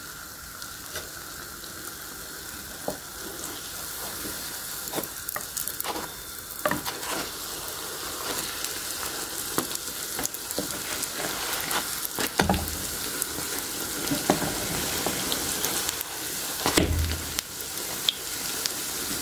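Yeast-dough pirozhki frying in vegetable oil in a pan: a steady sizzle full of small crackling pops. Two low thumps come about twelve and seventeen seconds in.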